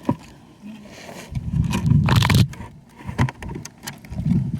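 Toy packaging being handled and scraped, with scattered small knocks and clicks and one louder rustling scrape about two seconds in.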